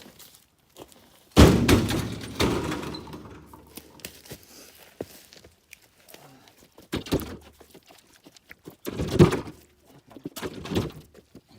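Heavy jarrah log set down hard: a loud thunk about a second and a half in, a second knock a second later, and more wooden thuds near the end as wood is handled.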